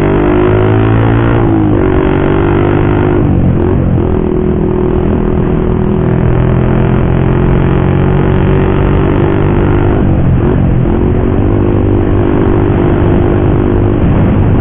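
Motorcycle with an aftermarket racing exhaust running loud and steady under way; the engine note briefly drops and picks back up about three times.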